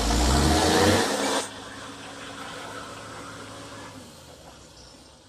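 Heavy off-road truck's engine under load: a loud rushing noise with a deep rumble for about a second and a half, then a quieter steady drone that fades away.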